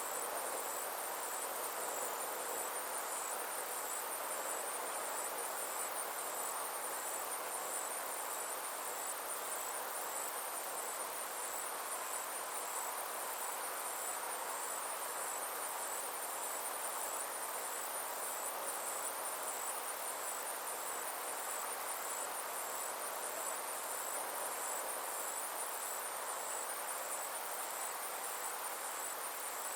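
Summer insects calling steadily in a high-pitched, fast-pulsing chorus, with a fainter, regularly repeating call just beneath it, over a soft outdoor hiss.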